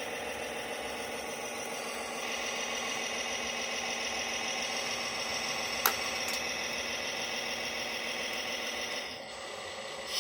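Radio-controlled Tamiya Globe Liner model truck running with a steady mechanical whine. It gets louder and higher about two seconds in, there is a sharp click near the middle, and it drops away about nine seconds in.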